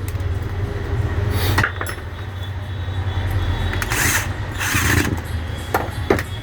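Angle grinder parts being handled during reassembly: several short clicks, knocks and scrapes of metal and plastic over a steady low hum.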